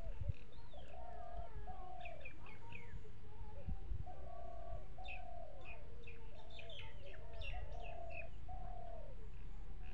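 Birds calling: a dove's cooing notes repeat steadily, with high short chirps from small birds over them and a low steady rumble beneath.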